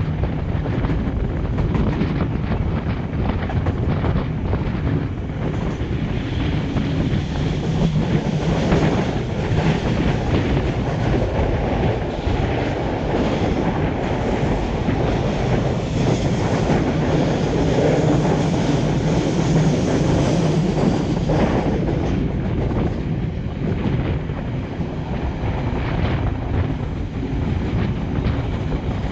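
Argo Parahyangan passenger train running at speed: a steady rumble of steel wheels on the rails with a clatter of clicks as they pass over rail joints, and wind buffeting the microphone.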